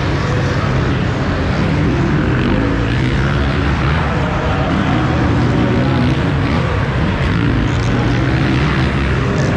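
Small two-stroke motocross bike engine, the KTM 50 SX class used in the KTM Junior Supercross Challenge, running loud and fairly steady as picked up by the bike's onboard camera.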